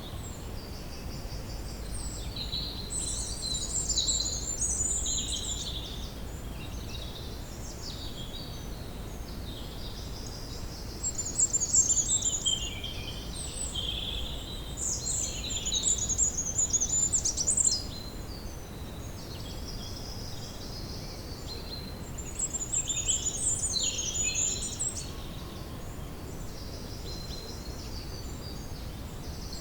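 Woodland ambience: songbirds singing in overlapping high chirps and trills, coming in bursts that are loudest in the middle stretch and again near the end, over a steady low background noise.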